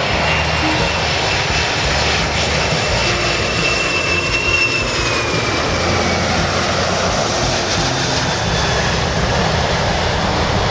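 Airplane engines running loud and steady, with a thin high whine that falls in pitch about four to six seconds in.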